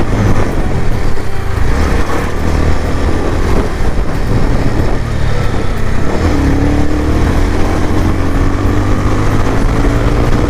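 Bajaj Pulsar 180F's single-cylinder engine breathing through an aftermarket Akrapovic slip-on exhaust while the bike is ridden along. The engine note rises steadily, drops about six seconds in at a gear change, then rises again.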